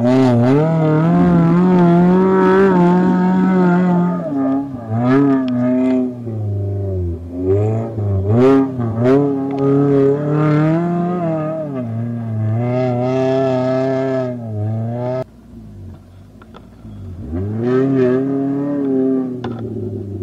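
Off-road Suzuki Gypsy's engine revving hard and unevenly under load as it climbs a steep muddy slope, the pitch rising and falling with the throttle. About three quarters of the way through the sound drops away suddenly, then the revs climb back.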